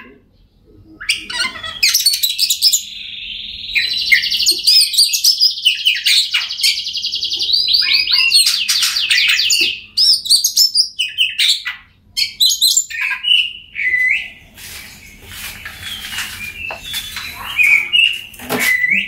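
Oriental magpie-robin singing a varied song of rapid whistled phrases, with a long fast trill in the middle and lower repeated notes near the end.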